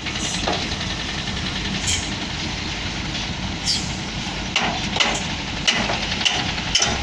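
Heavy diesel earthmoving machinery running steadily with a low rumble, over which come short sharp squeaks and clanks, more often in the last few seconds.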